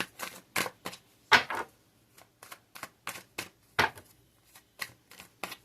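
Tarot cards being shuffled by hand: a string of short, sharp card clicks and snaps at an irregular pace of about three a second.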